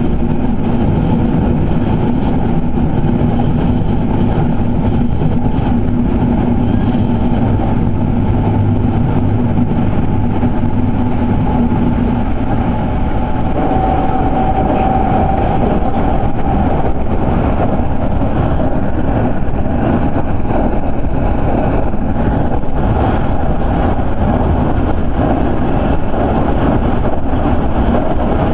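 Electric commuter train running between stations, heard inside the passenger car: a steady loud rumble of wheels on rail and running gear. A steady hum under it fades out about twelve seconds in, and a brief higher whine sounds a couple of seconds later.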